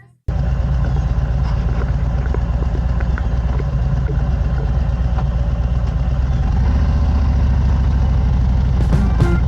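Harley-Davidson Road Glide's V-twin engine running steadily, a low drone that shifts slightly in pitch about seven seconds in. Music with a regular beat comes in near the end.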